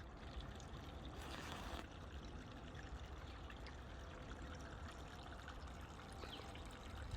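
Faint, steady running water from a stream, with a brief louder rush about a second and a half in.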